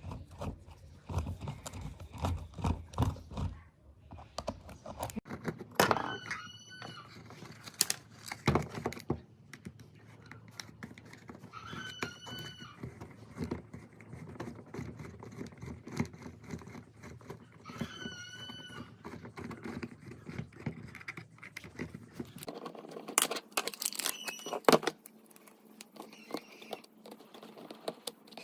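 Workshop handling noise from taking apart and working on old metal fan parts: a steady run of clicks, scrapes and knocks. A short squeak comes about every six seconds.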